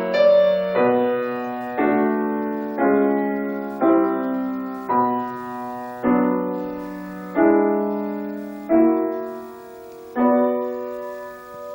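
Piano playing a slow melody in chords, one struck about every second and each left to ring and fade, the chords coming more slowly toward the end.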